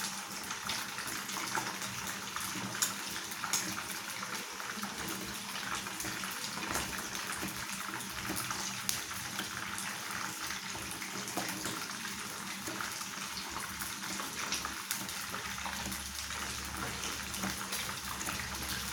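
Pieces of tongkol (mackerel tuna) deep-frying in hot oil: a steady sizzle with fine crackling and a few sharper pops.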